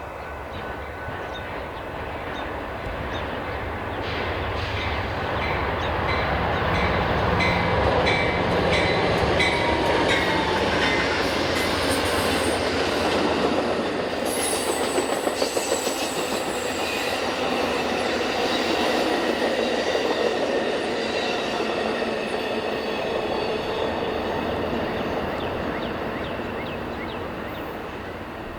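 Amtrak Southwest Chief passenger train rolling past, its diesel locomotives and cars running over the rails. Wheels click over the rail joints, and a high steady squeal rides on top. It grows louder over the first several seconds and fades near the end.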